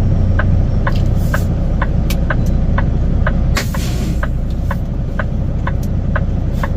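Semi-truck diesel engine running steadily, with the indicator flasher clicking about twice a second and two short hisses of air, about a second in and past the middle.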